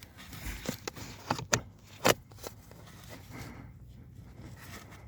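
Several sharp clicks and knocks in the first couple of seconds, from handling plastic parts and tools during repair work on the car's heater box, then only a faint steady hum.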